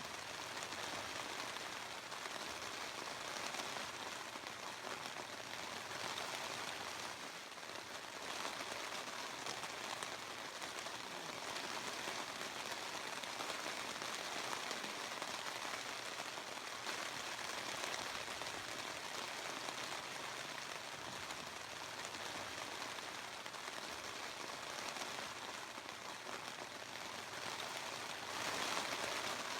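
Steady hiss and patter of water, with no break, swelling slightly near the end.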